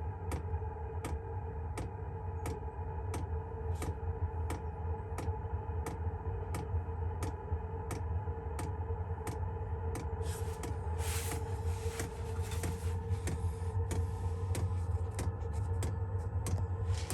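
Chinese diesel heater running after ignition: its fuel dosing pump clicks evenly a few times a second over the steady hum of the combustion blower fan. A short burst of rustling about ten seconds in.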